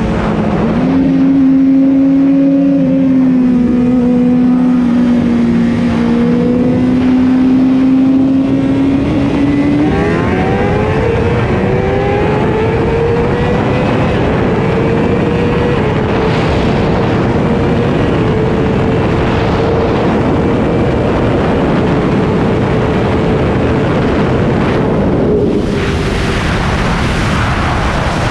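Suzuki GSX-R750 inline-four engine with heavy wind rush, heard from the rider's seat: it holds a steady note for about ten seconds, then climbs in pitch over a few seconds as the bike accelerates, and runs on at a higher, steady pitch. The rush of wind grows louder near the end.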